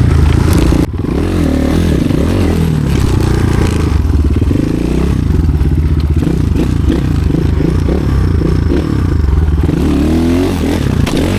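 Off-road motorcycle engine revving up and down unevenly as the bike is worked through technical terrain, with a brief sudden drop about a second in.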